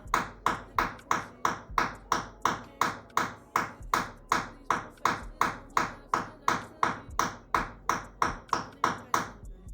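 A nail being hammered into a wall with an improvised tool in place of a hammer: steady, even blows about two to three a second, each with a short ring, stopping just before the end.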